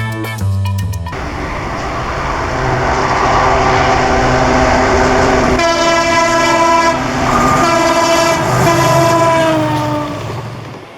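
EMD WDG4 diesel locomotives working in multiple unit pass with a freight train, the rumble building over the first few seconds. The horn sounds from about halfway in as a long multi-tone blast, a short one, then another long one whose pitch drops slightly as it passes, before fading near the end.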